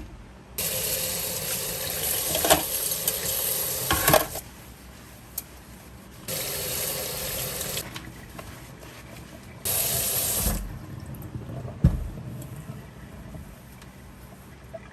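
Tap water running into a sink in three bursts, the first about four seconds long and the others shorter, with a few knocks in between.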